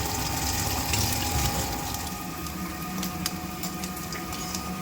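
Steady mechanical hum of a running kitchen appliance, with a faint steady whine above it.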